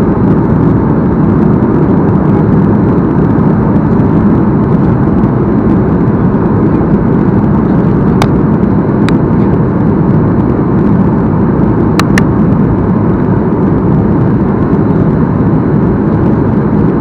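Steady cabin noise of a Boeing 737-8 on its approach, the rush of airflow and its CFM LEAP-1B engines heard from a window seat, with a few brief faint clicks partway through.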